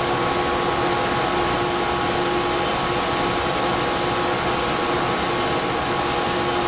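Grain dryer's fan running, a steady loud drone with a constant whine through it.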